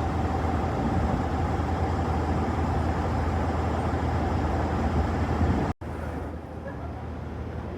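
Steady low rumble of a train at a station platform. It cuts off abruptly about six seconds in and gives way to quieter station noise.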